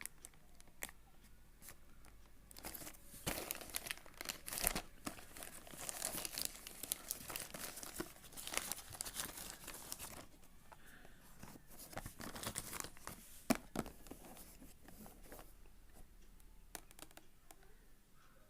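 Product packaging being torn open and crinkled by hand, in irregular rustling, tearing stretches with sharp clicks, busiest in the first half and again briefly later, with one sharp click near the end of that second stretch.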